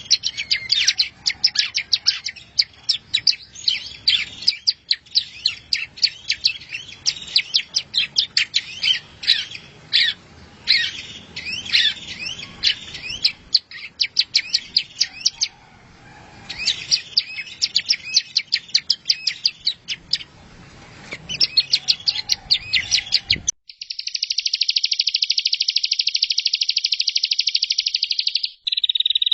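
Recorded songbird master track: a small bird singing rapid, high chirps and trills in bursts with short pauses. About 23 seconds in it cuts abruptly to a steady, dense high buzzing trill, which drops to a lower pitch near the end.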